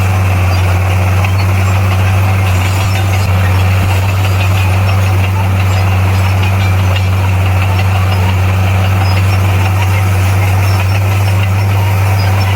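Bulldozer's heavy diesel engine running steadily at a constant pitch, with a strong low hum.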